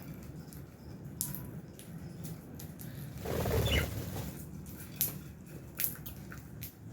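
Lovebirds (Fischer's and albino) moving about an aviary cage: scattered sharp clicks and taps, with a louder flurry of wingbeats a little over three seconds in.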